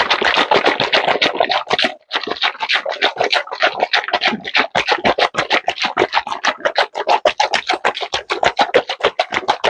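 A container of homemade oil-and-vinegar salad dressing being shaken hard by hand to mix in sugar, a rapid rhythmic sloshing and rattling at about five or six shakes a second, with a short pause about two seconds in.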